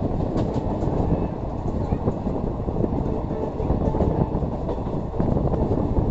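Passenger train running along the track, heard from on board: a steady, dense rail noise with faint scattered clicks.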